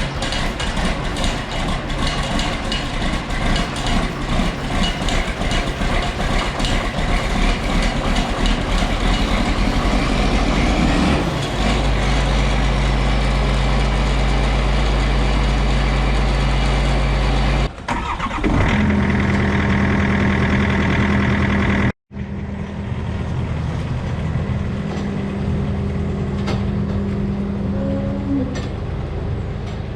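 Farm machinery engine running: a rattling, clattering stretch at first, then a steadier hum. The sound breaks off abruptly twice, about 18 and 22 seconds in.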